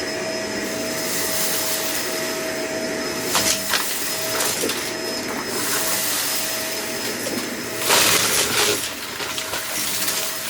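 Vacuum cleaner running with a steady motor whine while sucking up debris, which rattles and clicks through it a few times about three and a half seconds in. A louder crackling surge of pickup comes about eight seconds in.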